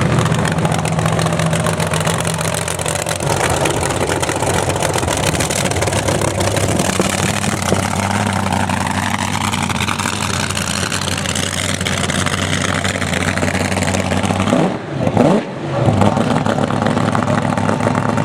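Car engines running and revving at a drag strip, with pitch glides as engines rise and fall. A sharp drop and sweep in pitch about 15 s in.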